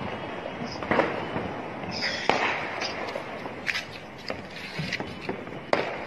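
Fireworks going off: scattered sharp cracks and pops, the loudest about two seconds in with a short hiss around it, and further bangs near the end.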